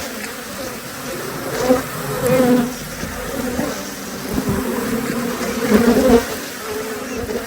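A large mass of honeybees buzzing around an open top bar hive, a dense hum that wavers in pitch, with a few light knocks in among it.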